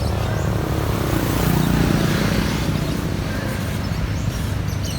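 A motor vehicle engine running close by, growing louder to a peak about one and a half seconds in, then easing off as it passes.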